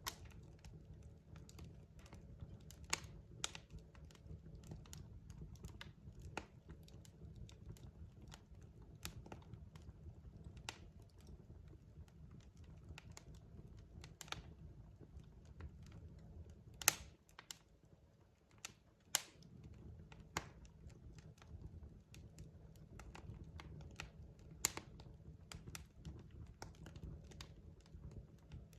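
Wood fire in a fireplace crackling: irregular sharp pops and snaps of varying loudness over a low steady rumble of the burning logs. A couple of the loudest pops come about two-thirds of the way through, with the rumble briefly dropping away between them.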